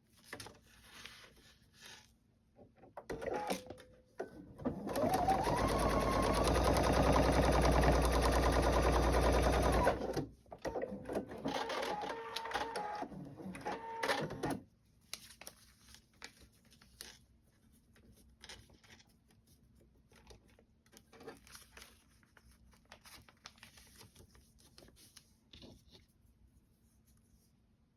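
Electric sewing machine stitching a seam: a few short starts, then one steady run of about five seconds, then several shorter stop-start runs that end about halfway through. After that there are only faint ticks of fabric and paper being handled.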